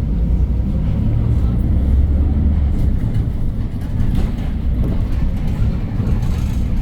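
Hyundai New Super Aerocity city bus's C6AF CNG engine running with a steady low rumble, heard from inside the cabin.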